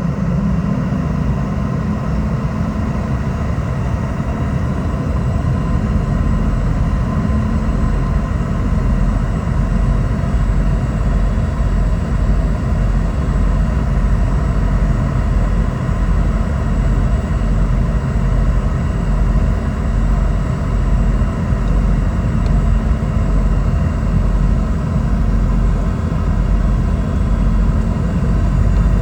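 Steady cabin noise of a Boeing 717-200: its rear-mounted Rolls-Royce BR715 jet engines running with a constant low rumble and a faint steady whine, heard from inside the cabin.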